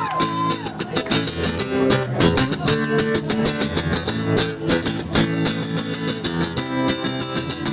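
Guitar strummed in a steady rhythm, playing a song's instrumental intro before the vocals come in. A crowd whoop fades out in the first half second.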